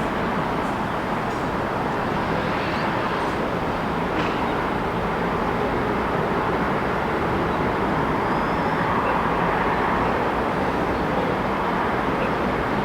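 Steady city traffic noise: a constant wash of passing vehicles and tyres, with a few faint high chirps or squeaks over it.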